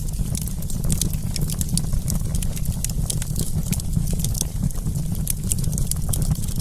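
Wood campfire crackling: many quick, sharp pops and snaps over a steady low rumble.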